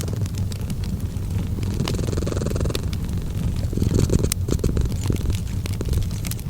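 A cat purring steadily, a low, rapidly pulsing rumble, over the crackle of a wood fire: scattered small sharp pops and snaps.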